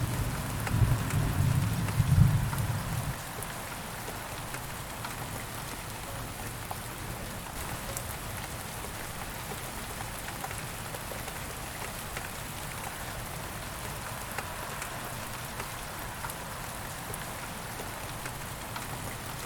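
Thunderstorm rain falling steadily, with scattered drop ticks. A low thunder rumble fills the first three seconds and then stops.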